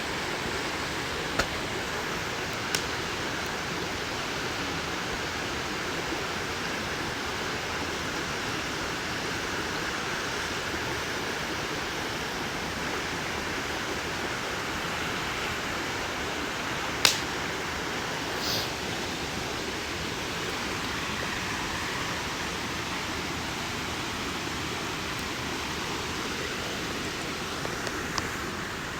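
Wood campfire burning: a steady rushing hiss with a few sharp pops, the loudest about seventeen seconds in.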